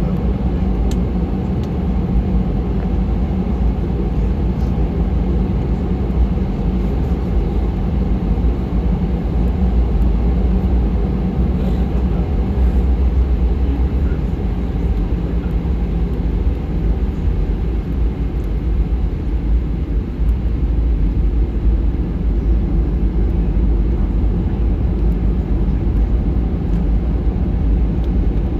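Steady, even rumble of an Airbus A319's engines and rushing air, heard inside the cabin.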